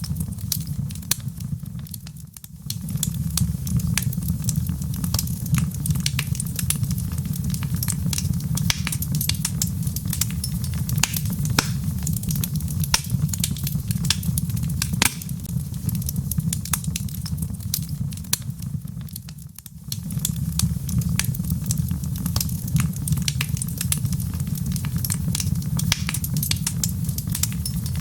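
Wood fire burning in a fireplace: a steady low rumble of flame with many sharp crackles and pops from the logs. The rumble briefly drops away twice, about two seconds in and again near twenty seconds.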